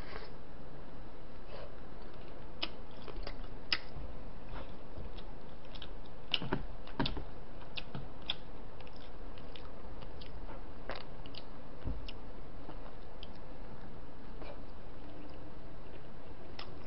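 A person chewing braised chicken close to the microphone, with soft mouth noises and scattered light clicks of metal chopsticks against a plastic food container, over a steady background hiss.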